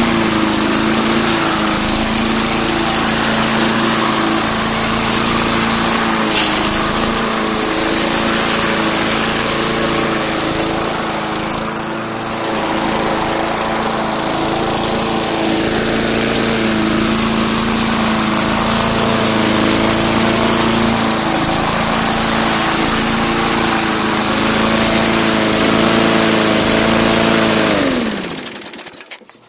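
Briggs & Stratton 4.5 hp single-cylinder engine on a push mower running steadily. Near the end it is shut off, its pitch falling as it winds down to a stop.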